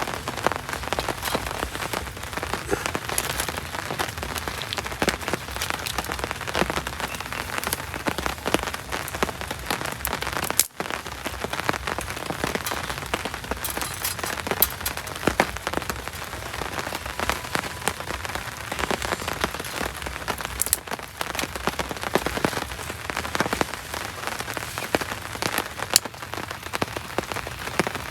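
Heavy tropical rain falling steadily, with many close, sharp drop strikes on a surface over the rush of the downpour. A momentary gap breaks it about ten seconds in.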